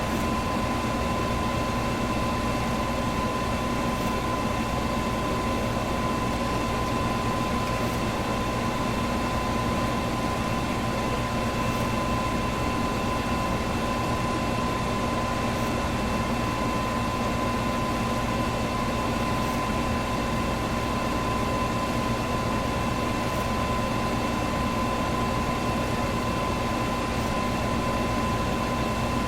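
Electric fan running steadily: an even rush of air with a constant motor hum and a thin steady whine.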